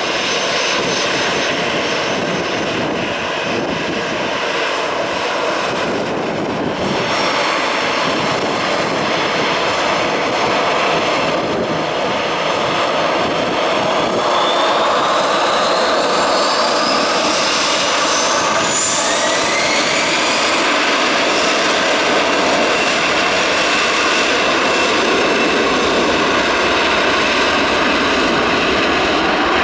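Airbus A321's CFM56 turbofan jet engines running at high thrust on departure, a loud steady roar, with a whine that rises in pitch about halfway through.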